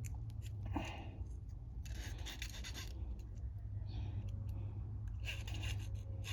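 Small parts of a lawn mower carburetor being handled: scratchy rubbing and scraping bursts with a few small clicks, over a steady low hum.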